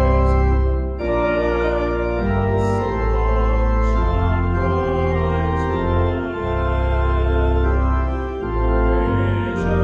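Organ playing a hymn: full sustained chords over a deep bass, moving to a new chord every second or so, with a brief break between phrases about a second in.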